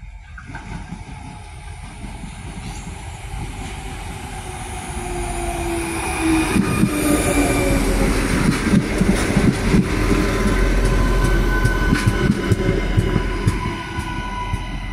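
Adelaide Metro 3100-class diesel railcar set running in and passing close by, its rumble building to a peak midway with a falling engine tone. Its wheels click sharply over rail joints, and steady high squealing tones come from the brakes as it slows for the platform.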